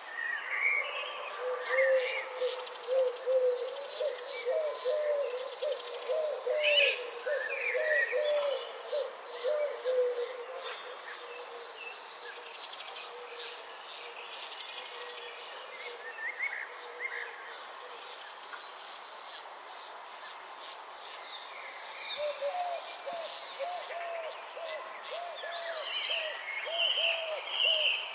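Nature ambience: a steady high insect buzz that stops about two-thirds of the way through, under scattered bird chirps. A run of quick, repeated low calls comes early on and again near the end.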